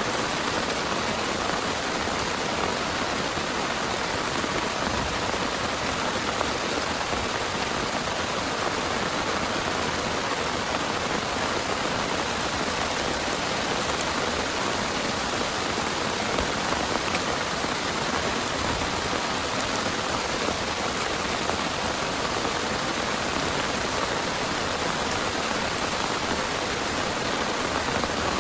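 Heavy rain falling steadily, with scattered individual drop hits standing out.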